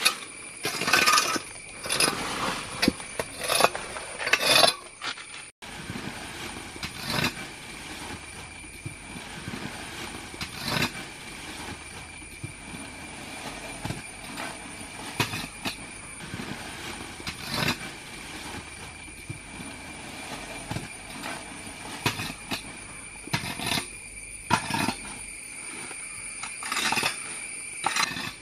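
Dry leaf litter being cleared off steps, with irregular scraping and rustling strokes, busiest in the first few seconds. A steady high-pitched tone runs underneath.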